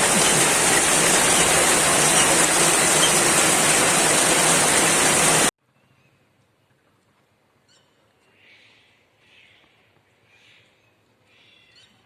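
Heavy downpour of rain, a loud steady hiss, which cuts off suddenly about five and a half seconds in. After that it is nearly quiet, with a few faint short sounds.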